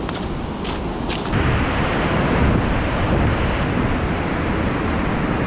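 Rushing water, a steady wash of noise that grows louder about a second in, with wind buffeting the microphone.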